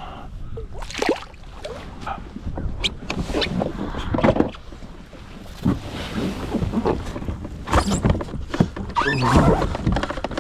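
Irregular knocks, clatters and rustles of gear being handled aboard a fishing kayak, over a steady low rumble of wind on the microphone.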